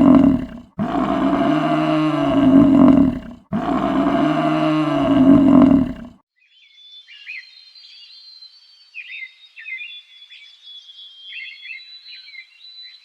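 A large animal's deep, roar-like call, repeated three times with short gaps. After about six seconds this gives way to faint, high-pitched chirping.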